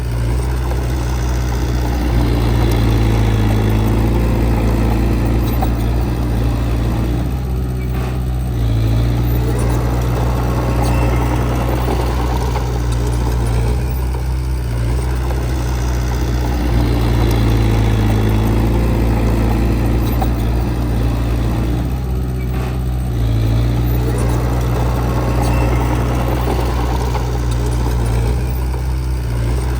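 Heavy earthmoving machine's diesel engine running steadily, its sound swelling and easing every six or seven seconds.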